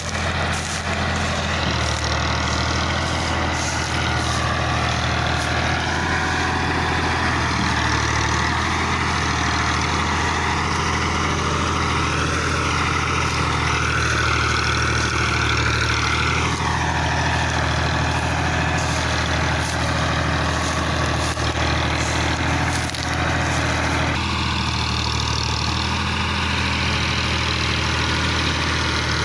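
Fiat 480 tractor's diesel engine running steadily, with a higher whine that wavers in pitch around the middle; the sound shifts about 24 seconds in.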